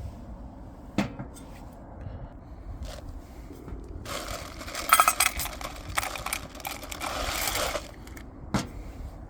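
Tableware being handled: a few single knocks, and from about four seconds in a few seconds of clinking and scraping, sharpest about five seconds in.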